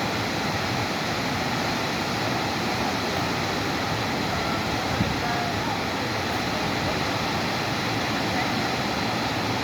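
Steady, even rushing of a waterfall, falling water close by, with one short knock about halfway through.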